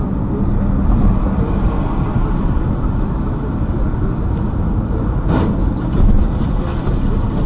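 Car driving noise: a steady engine and road rumble, with one brief sharper sound about five and a half seconds in.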